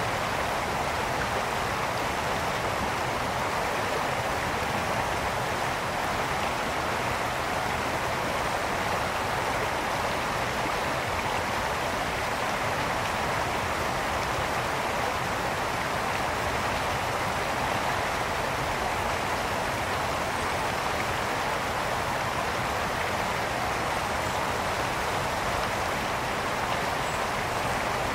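A brook flowing over stones: a steady rush and babble of running water.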